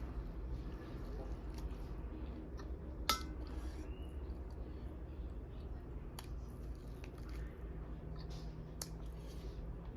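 Close-up eating sounds while a person eats duck curry: wet chewing with scattered small clicks, and one sharp click about three seconds in, over a steady low hum.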